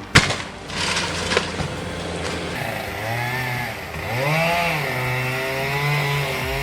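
A sharp bang just after the start, then a chainsaw engine running and revving, its pitch rising and falling twice before holding steady.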